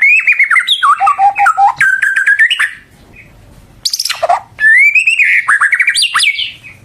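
White-rumped shama singing loud, rapid, varied whistled phrases that slide up and down in pitch. The song breaks off about three seconds in, a harsh downward-sweeping note comes about a second later, and then a further run of quick whistled phrases follows.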